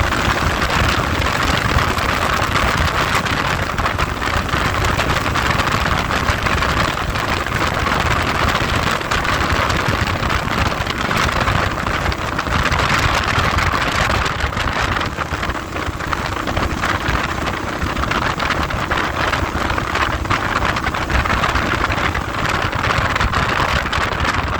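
Heavy wind buffeting on the microphone while riding, a loud, steady rushing noise with constant rapid crackling gusts.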